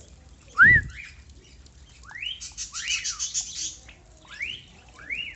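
Parakeet calling: a series of rising, whistled chirps, with a stretch of rapid buzzy chatter in the middle. A loud low thump comes under the first chirp, less than a second in.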